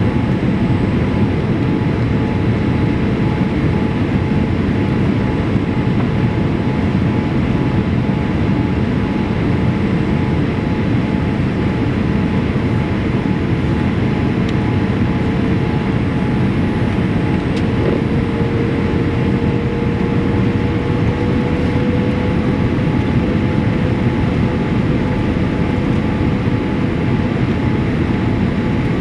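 Steady cabin noise inside a Boeing 787-8 airliner in flight: a constant rush of airflow and engine noise with a faint steady whine that rises a little in pitch about two-thirds of the way through.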